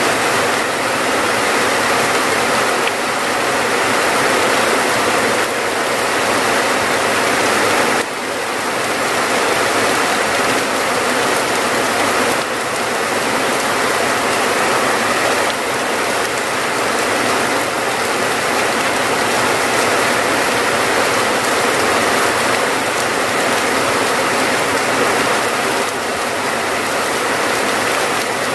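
Steady rain falling, a dense even hiss of drops that dips briefly about eight seconds in.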